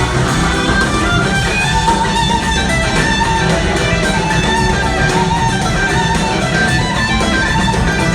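Live rock band playing loud, with an electric guitar taking the lead in held, bending notes over bass, drums and organ.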